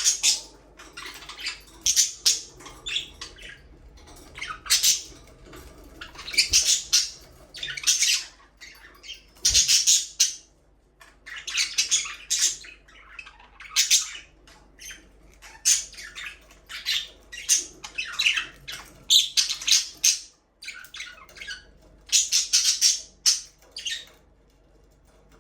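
Budgerigars chattering and chirping in quick, high-pitched bursts about every second, with short squawks. The calls stop about a second before the end.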